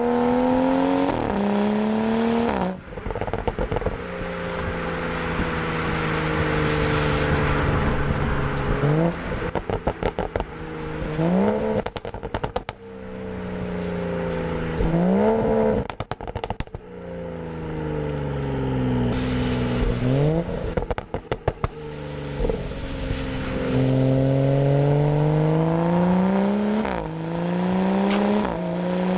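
BMW M235i's turbocharged straight-six, breathing through a de-catted downpipe, driven hard. The revs climb quickly several times and fall away slowly in between, with bursts of exhaust crackles and pops on the overrun when the throttle is lifted.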